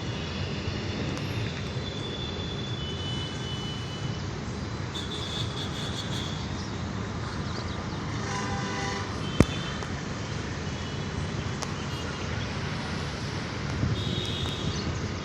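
Steady rumble of a moving train, with a few brief high-pitched tones over it and one sharp click about nine and a half seconds in.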